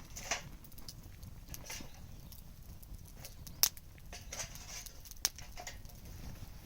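Wood bonfire crackling: irregular sharp pops and snaps with brief hisses, the loudest pops about three and a half seconds in and again just past five seconds, over a low steady rumble.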